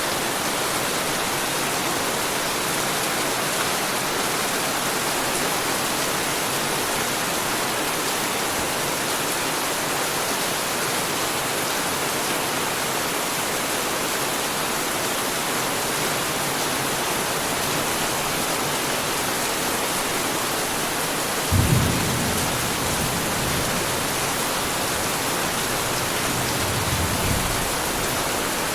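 Heavy rain falling steadily. About three-quarters of the way through, a sudden low thunderclap rumbles on for a couple of seconds, and a fainter rumble of thunder follows near the end.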